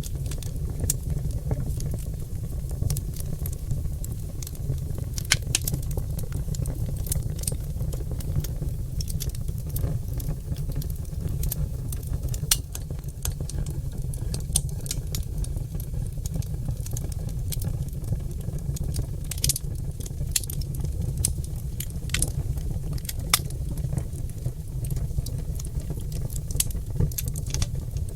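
Oak logs burning in a fireplace, crackling with many irregular sharp pops over a steady low rumble.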